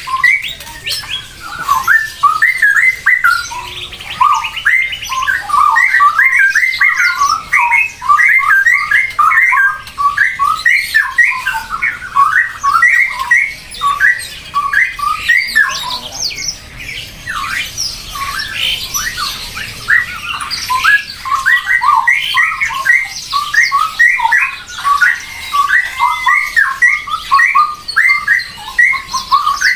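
Birds squawking: a dense, unbroken stream of short, rapid calls, several overlapping.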